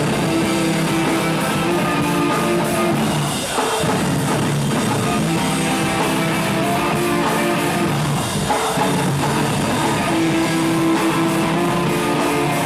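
Live rock band playing: electric guitars holding chords over a drum kit.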